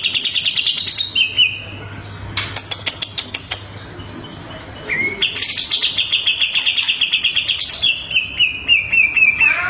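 Recorded songbird song of the kind used as 'masteran' tutor material for contest birds: rapid, high trilled phrases, a short one at the start and a long one from about halfway that steps down in pitch near the end, with a run of sharp clicking notes between them.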